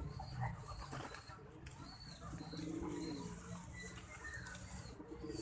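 Domestic pigeons cooing, a low wavering coo loudest around the middle.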